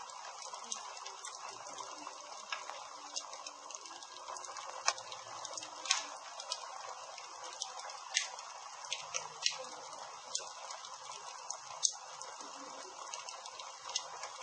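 Campfire burning, a steady hiss with irregular sharp crackles and pops from the burning wood.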